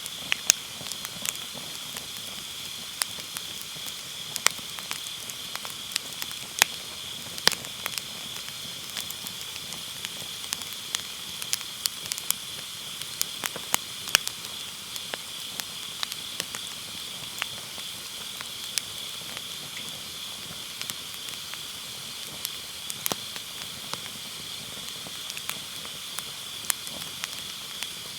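Firewood burning in a round fire pit, crackling with frequent sharp pops at irregular intervals, over the steady high chirring of autumn grass insects.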